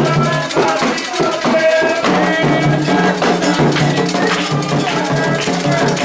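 Candomblé ritual music: drums and shaken rattles playing a quick, steady rhythm, with voices singing over it.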